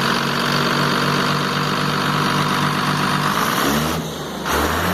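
Mercedes-Benz 1620 truck's diesel engine idling steadily after repair, with the noise it came in with now cured. Its sound dips and deepens briefly near the end.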